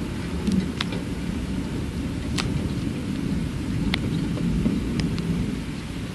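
Thunderstorm: a low, steady rumble of thunder over rain, with a few sharp drops striking a hard surface close by, roughly one a second.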